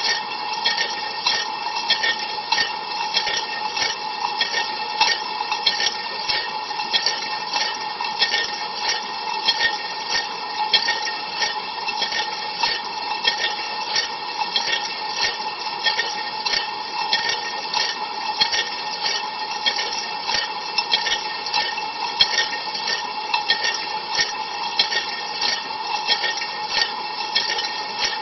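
Ariston LV 46 A IX dishwasher on a cold-water rinse, heard from inside the tub: water from the spray arms spatters against the walls with many short, repeated splashes, over a steady hum from the wash pump.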